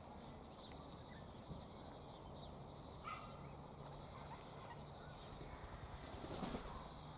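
Quiet outdoor ambience with faint bird chirps, a few small sharp clicks, and a short rustle near the end.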